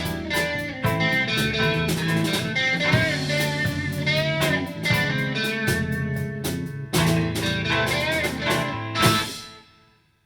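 Rock-blues band playing: electric guitar with bent notes over a drum kit. The piece closes on a last loud accented hit about nine seconds in, which dies away to silence.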